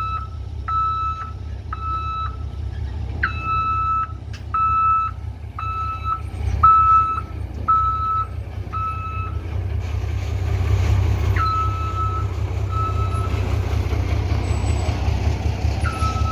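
Truck reversing alarm beeping about once a second over a heavy truck engine's low, steady rumble. The beeping pauses after about nine seconds, then sounds a few more times.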